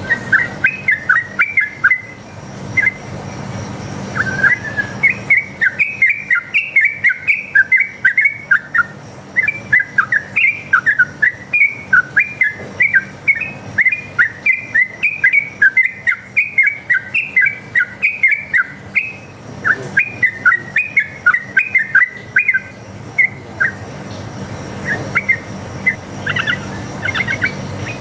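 Yellow-vented bulbul (trucuk) singing a long, fast run of chirpy notes, about three a second, with short pauses. This is the long continuous 'ropel' song of a wild male.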